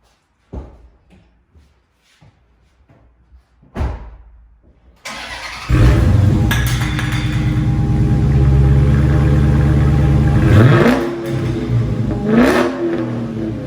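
Two short thumps, then the Dodge Challenger's 392 Hemi V8 cranks briefly and starts about five seconds in, running loud and steady. It is revved twice, once near eleven seconds and again in a shorter blip near twelve and a half seconds.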